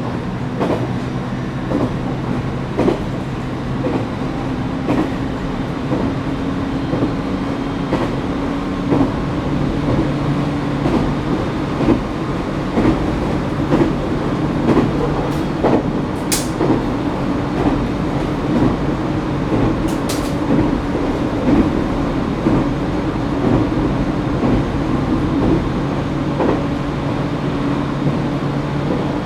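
ET127 series electric train running at speed, heard from inside the car: a steady low hum from the Toyo GTO-VVVF traction equipment that shifts in pitch a few times, with the wheels clacking over rail joints. Two short high-pitched sounds come just past the middle.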